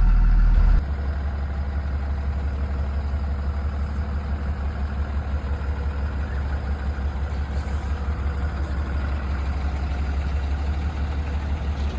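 School bus engine idling with a steady, low, even hum. About a second in the sound drops a little in level and the hum shifts lower in tone, then runs on unchanged.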